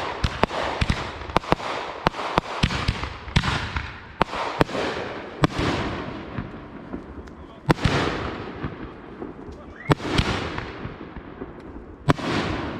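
Consumer fireworks going off in quick succession: sharp bangs, several a second in the first half and sparser later, each followed by a hissing tail that fades.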